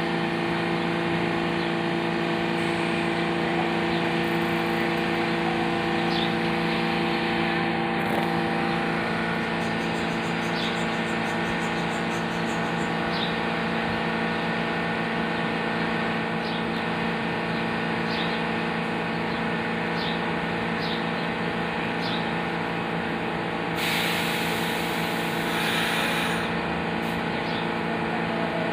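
Train running with a steady hum and a wash of noise, with faint, evenly spaced clicks. A hiss about 24 seconds in lasts a couple of seconds.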